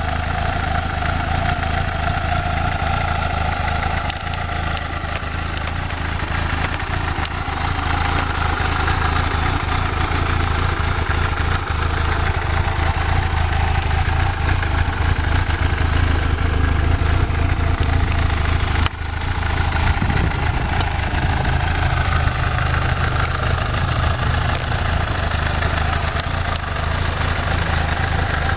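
1993 Yamaha YZF750's inline-four engine idling steadily, with one brief dip in level about two-thirds of the way through.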